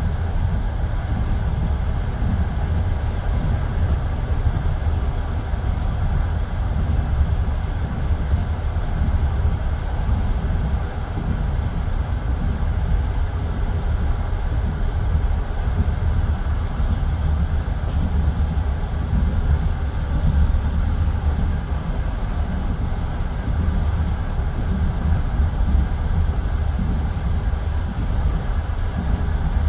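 Passenger railway carriage running between stations, heard from inside the car: a steady, even low rumble of the train on the track.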